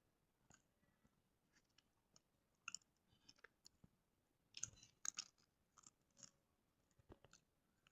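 Faint, scattered chewing sounds close to the microphone: soft wet clicks and smacks coming in small clusters, the loudest group a little past halfway.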